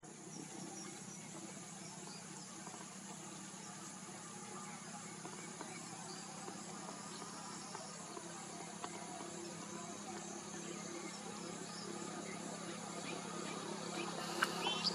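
Steady outdoor hum of insects with faint scattered chirps, slowly growing louder; near the end a sharp click and a few quick falling chirps.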